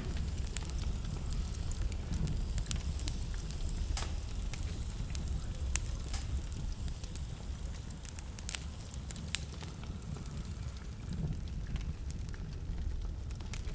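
Wood fire burning in a fireplace: a steady low rumble of flames with frequent sharp, irregular crackles and pops, busiest in the first half.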